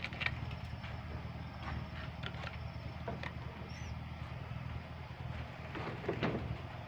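Scattered short high bird chirps and ticks over a steady low hum, with a brief high whistle about four seconds in.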